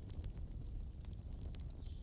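Wood fire crackling: a steady low rumble with scattered sharp pops and ticks.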